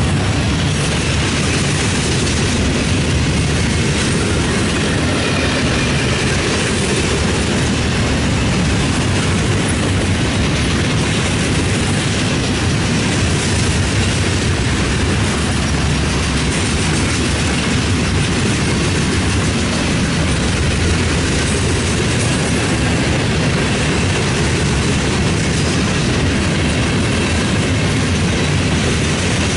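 Freight train of open-top gondola cars rolling past: a steady, loud noise of steel wheels running on the rails.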